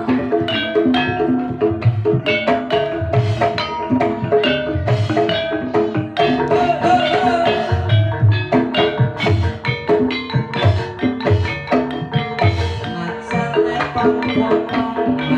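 Javanese gamelan music accompanying an ebeg horse dance: hand drums (kendang) and struck keyed mallet instruments playing a fast, busy, steady rhythm.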